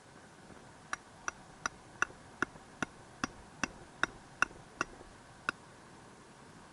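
About a dozen sharp metallic hammer strikes, evenly paced at a little over two a second, each with a brief ringing tone, as a tent peg is driven into the ground; they stop about two thirds of the way through.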